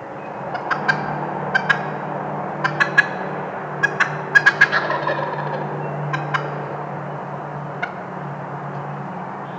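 Wild turkey gobbling: several rapid rattling gobbles in clusters, the last ones fainter and spaced out.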